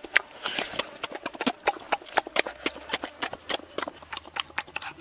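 Close-up mukbang eating sounds of roasted pig's head being bitten and chewed: a quick, uneven run of wet mouth clicks and smacks, several a second.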